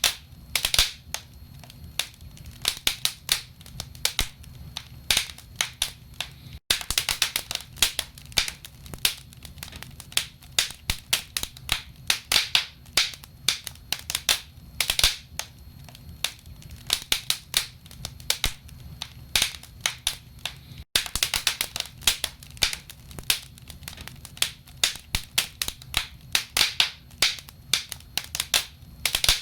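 Wood fire burning in a fireplace, crackling with irregular sharp pops and snaps of the burning logs, several a second, over a low steady rumble. The sound cuts out for an instant twice, about 7 and 21 seconds in.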